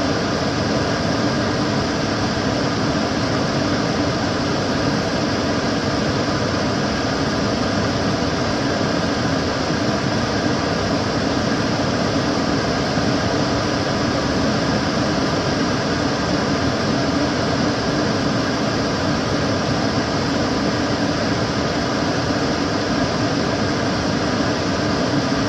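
Kitchen cooker hood extractor fan running at a constant speed: a steady rush of air with a faint, unchanging motor hum.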